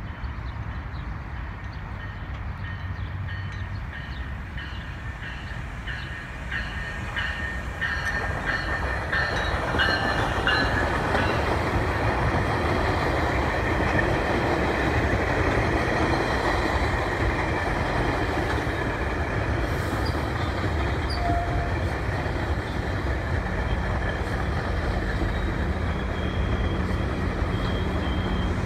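GO Transit bilevel commuter train pulling into a station, cab car first. A regular series of high pings is heard as it approaches, then the coaches roll past with rail rumble and wheel noise that grows louder about eight seconds in. Near the end a steady low drone comes in as the diesel locomotive at the rear draws near.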